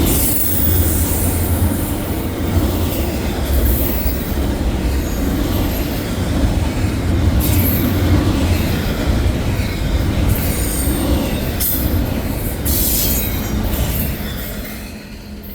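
Intermodal freight cars rolling past: a loud, steady rumble of wheels on rail, with short high-pitched wheel squeals every few seconds. The sound falls away near the end as the train moves off.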